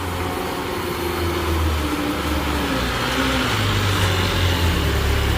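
Diesel truck engine labouring under load on a steep, broken uphill, its note slowly dropping as it lugs.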